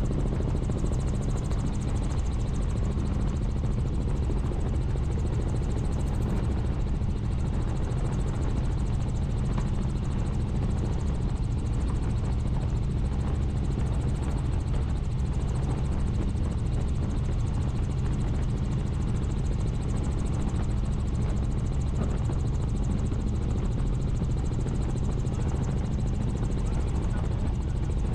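Helicopter in flight, a steady low drone from its rotors and engine with an unchanging hum.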